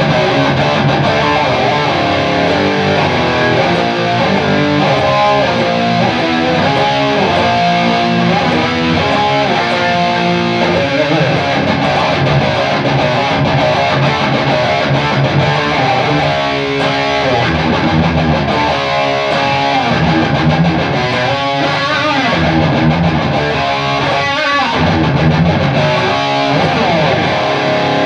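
Guitar playing continuously, a mix of strummed chords and picked notes.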